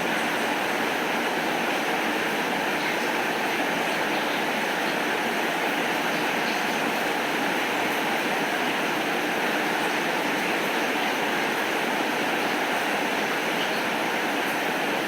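Steady rain falling, an even hiss that never lets up, with a few faint ticks of drops.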